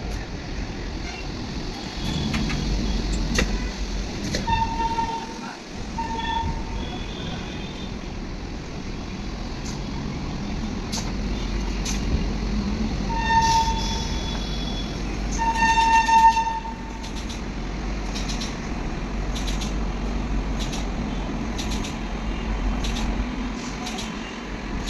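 A vehicle horn sounding in short toots, twice about 4–6 s in, and again around 13 s and 16 s, the last one longer and the loudest, over a steady low engine rumble.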